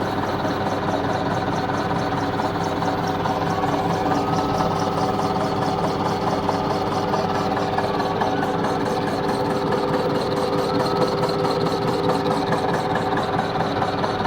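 Milling machine running steadily, its cutter machining a 20 mm slot into the end of a muckloader ram.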